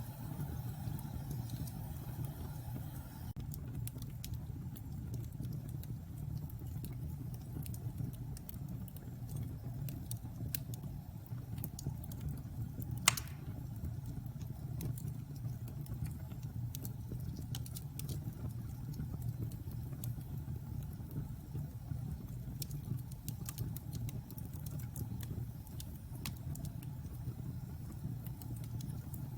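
Wood fire burning in a fireplace: a steady low rumble of the flames with scattered small crackles, and one loud pop about halfway through.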